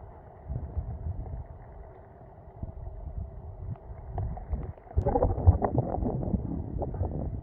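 Storm wind buffeting the microphone in gusts, a low rumbling noise that rises and falls, turning suddenly louder about five seconds in.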